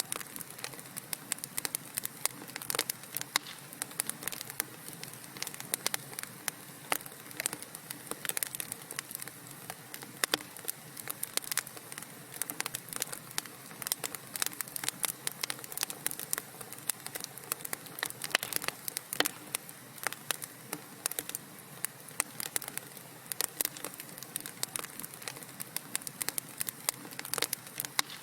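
Wood fire crackling in a fireplace: dense, irregular small pops and snaps over a soft steady hiss.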